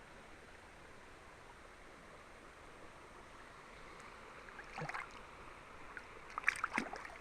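River water flowing steadily, with a few short splashing or knocking sounds about five seconds in and a louder cluster near the end.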